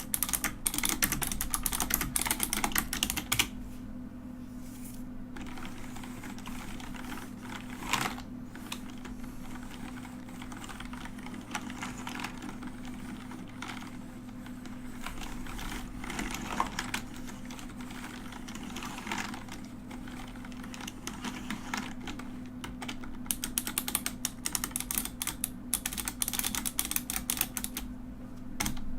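Typing on a mechanical keyboard: a rapid, dense clatter of key clicks, a pause of about two seconds, then sparser and softer keystrokes with one louder clack. Fast, continuous clicking returns near the end.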